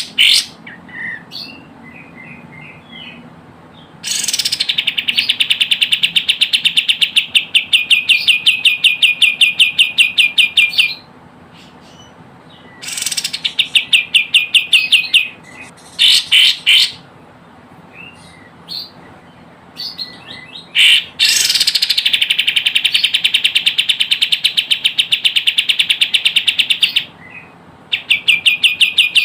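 Kapas tembak (a bulbul) calling: loud, fast rattling trills of rapidly repeated high notes in bursts of several seconds, with softer short chirps in the pauses between them.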